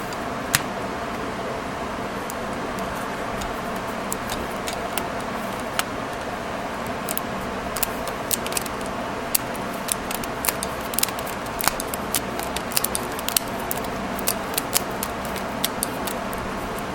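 Sharp, irregular metallic clicks and snaps from a small metal staple remover being handled and worked, sparse at first and coming thick and fast in the middle. A steady background hum runs underneath.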